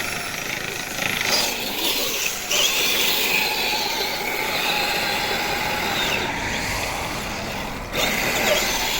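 Radio-controlled truck driving in snow: a steady whine from its small electric motor and gears, wavering up and down in pitch as it is throttled.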